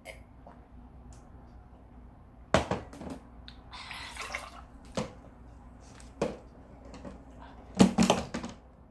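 A few sharp knocks and clatters of objects being handled, with a short hissing rustle about four seconds in and the loudest knocks near the end.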